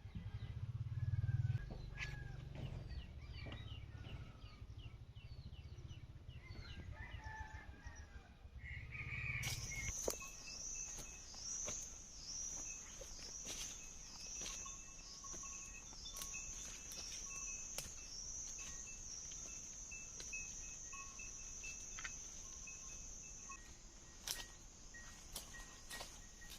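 Forest ambience: small birds chirping over a low rumble, then, after an abrupt change about ten seconds in, a high, steady, pulsing insect drone takes over. Scattered sharp clicks and rustles run through it.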